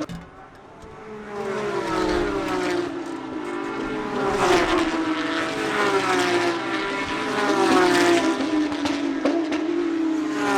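Several race cars passing one after another at speed, engines running high, each engine note falling in pitch as the car goes by.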